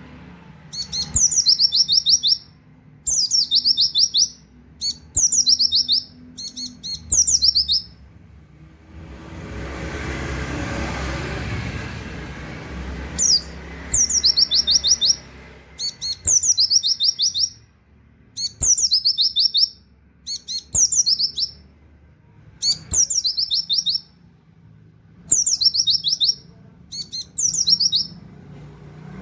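White-eye (pleci) singing short repeated bursts of rapid, high 'wit wit' notes in a canary-like style, a burst about every two seconds. About a third of the way in the song pauses for several seconds while a rushing noise swells and fades.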